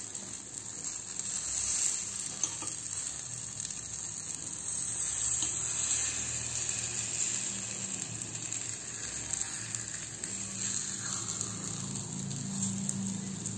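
Jumbo takoyaki batter steadily sizzling in oil in an aluminium takoyaki pan, with the occasional light scrape and tap of a metal skewer turning the balls.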